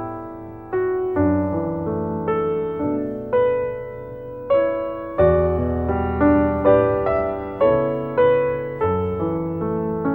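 Piano background music: single notes struck about every half second and left to fade, with deeper bass notes coming in now and then.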